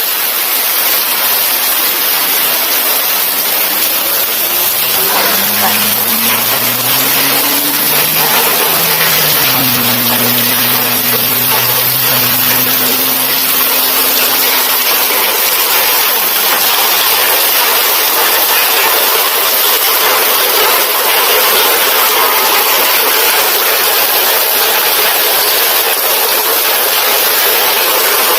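Heavy rain pouring down, a steady loud hiss. In the middle a low motor drone rises in pitch, holds for several seconds, then fades.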